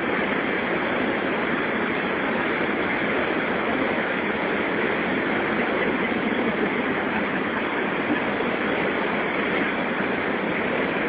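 Steady rush of white water pouring through the waterfall's rapids, an even noise with no change in level.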